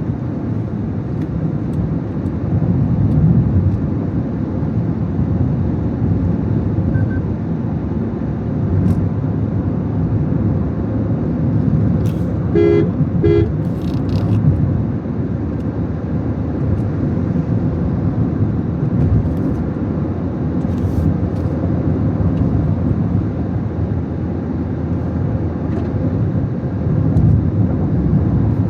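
Steady low rumble of a car driving, with two short car-horn beeps about twelve seconds in.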